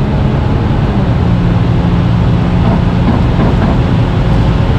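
Volkswagen Touareg's Stage 3 tuned 3.0 V6 TDI diesel engine pulling under full acceleration at high speed, heard from inside the cabin. It is a steady loud drone mixed with road and wind noise.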